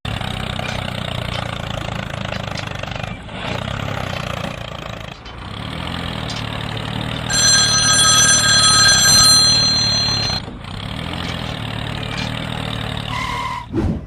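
Small engine running steadily. A ringing, bell-like tone sounds over it for about two seconds midway.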